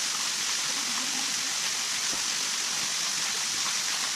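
Steady rushing hiss of water, even and unbroken throughout.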